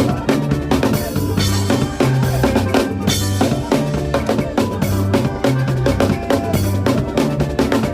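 Drum kit playing a fast makossa groove with frequent snare and rim hits over a stepping bass line, part of a praise medley.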